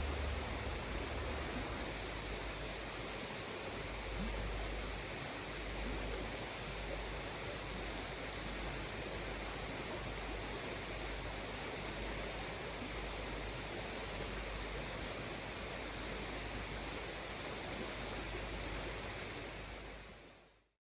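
Steady, even outdoor rushing noise with no distinct events, fading out near the end.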